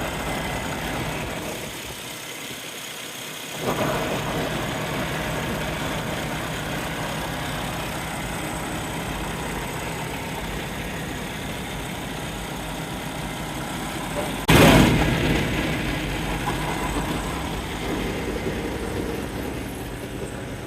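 Heavy diesel truck engine idling steadily. About two-thirds of the way through there is a sudden loud burst that fades over a second or two.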